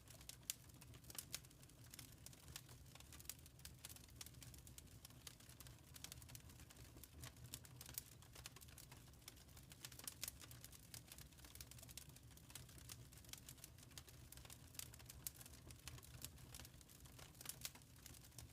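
Wood fire burning in a fireplace: quiet, irregular crackles and pops from the burning wood over a steady low rumble of the flames.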